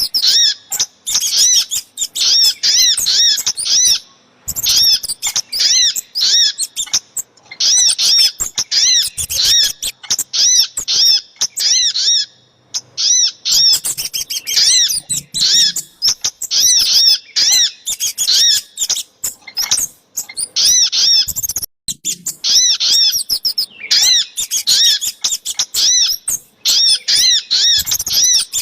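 Bird-lure recording of small songbird calls, the sogok ontong (crimson sunbird) and kemade played together: loud, rapid runs of high, sharp chirping call notes, several a second, broken by short pauses.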